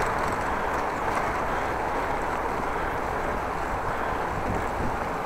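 Steady wind rushing over the microphone of a cyclist riding on a windy day.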